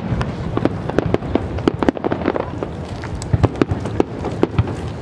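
Aerial firework shells bursting in a rapid, irregular series of bangs, several a second, over a steady low rumble.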